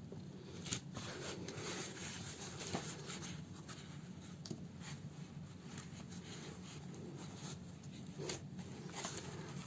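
Hand-sewing a fabric house slipper: needle and thread pulled through the cloth, making irregular scratching and rustling strokes with scattered small clicks.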